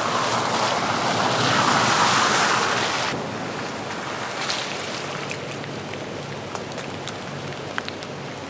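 Rain, a steady hiss that is heavier for about the first three seconds, then drops suddenly to a lighter patter with scattered drips.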